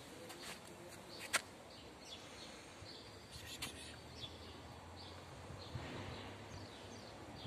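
Faint background of small birds chirping now and then in short falling notes, with one sharp click a little over a second in.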